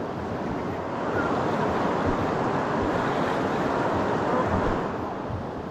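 Rushing river water of whitewater rapids, swelling louder about a second in and easing off near the end.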